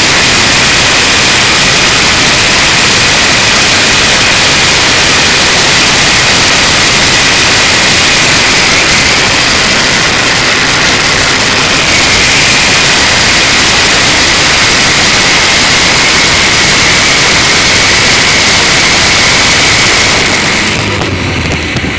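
Maxion turbo diesel engine of a Chevrolet S10 running hard, a loud steady hiss with a high whistle held over it, easing down near the end.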